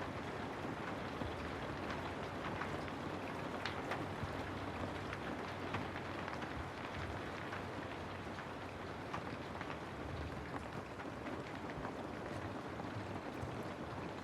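Steady rain with many individual drops pattering on a surface, an even hiss with scattered small drop ticks.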